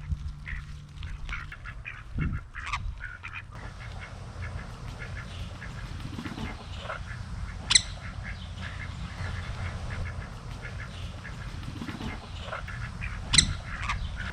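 Ducks quacking on and off over a low steady rumble, with two sharp clicks, one about halfway through and a louder one near the end.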